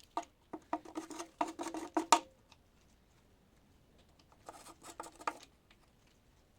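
Socket ratchet clicking in short irregular runs with a metallic ring while the oil pan bolts of a Holden 253 V8 are worked loose. A busy run fills the first two seconds, then a second, shorter run comes near the end.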